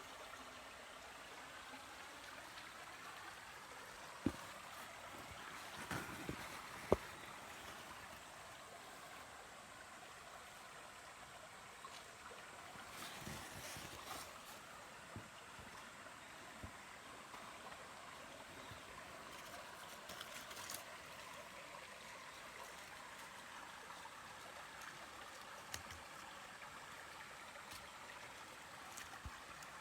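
A mountain stream running faintly and steadily, with a couple of short sharp knocks about four and seven seconds in.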